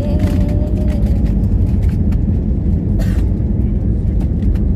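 Loud, steady low rumble of a passenger jet taking off, with a faint thin whine holding for about the first second.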